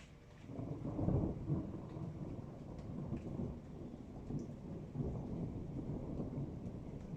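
Thunder rolling: a low rumble builds suddenly about half a second in, peaks about a second in, then keeps rumbling in smaller swells.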